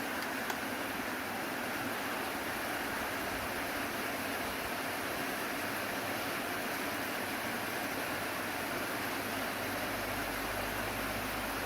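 Restored electric table fan running, a steady rush of air from its blades; a low motor hum joins near the end.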